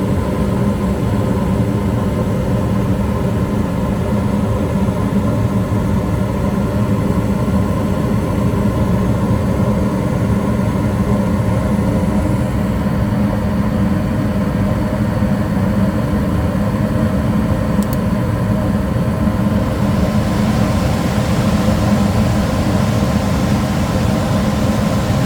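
Goodman gas furnace running with a steady motor hum. A brighter hiss joins in about twenty seconds in.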